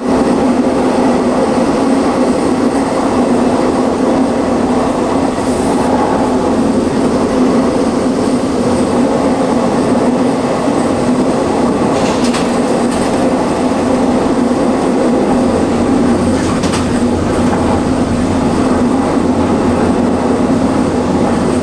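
Passenger train running steadily along the track, heard from inside the carriage: an even rumble of wheels on rail, with a few short clicks about halfway through and again later.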